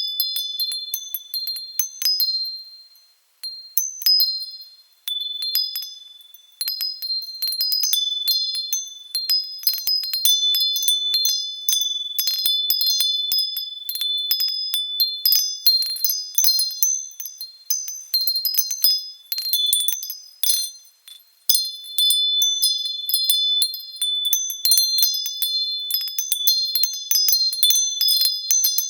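Wind chime ringing in the breeze: clusters of high-pitched tones struck at irregular moments, overlapping and dying away, with a few short lulls.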